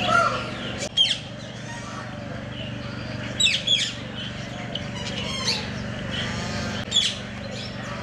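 Small birds chirping in short, sharp high calls that come several times, over a steady low hum.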